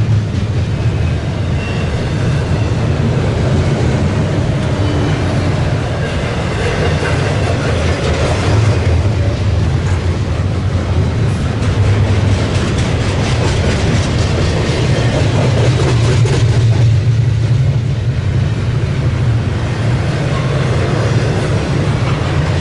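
Double-stack intermodal freight train rolling past, with steady rumble and wheels clacking over the rail joints.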